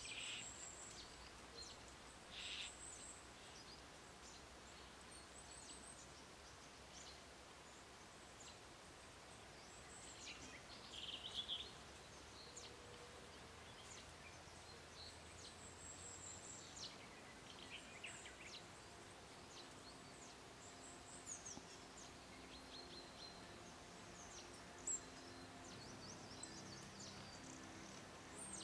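Near-silent woodland ambience with scattered faint, high bird chirps and short calls now and then.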